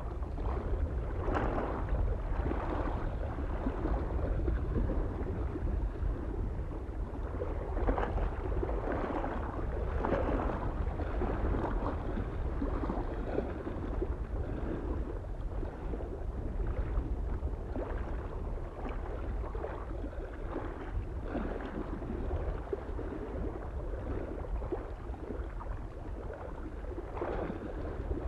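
Small waves lapping and splashing irregularly against a lake shore, with a steady low rumble of wind on the microphone underneath.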